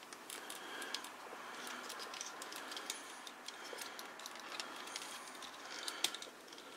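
Faint clicks and light rattling of the hard plastic leg and foot parts of a 1998 Takara B-Daman toy being turned and pushed into place by hand, with a few sharper clicks near the end.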